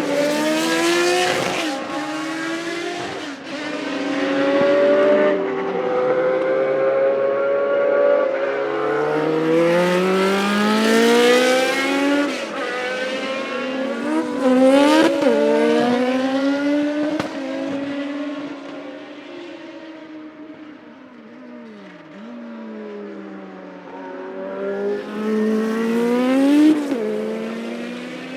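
Classic Formula 1 race car engines at high revs, the pitch climbing repeatedly and dropping sharply between climbs as the cars shift gear and pass by. The sound fades somewhat about two-thirds of the way through, then swells again near the end.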